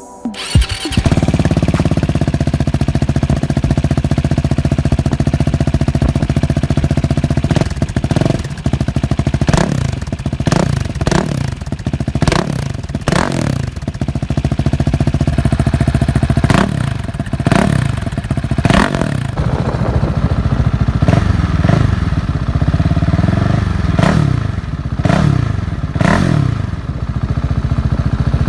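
KTM 690 Duke's single-cylinder engine through a Remus Hypercone aftermarket exhaust. It starts up about half a second in and idles, then from about eight seconds in it is blipped over and over, each rev rising and dropping quickly back to idle.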